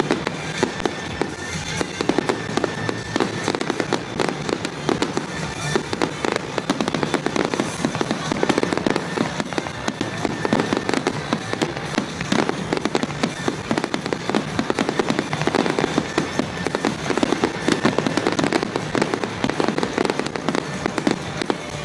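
Fireworks going off in a dense, continuous run of rapid bangs and crackles.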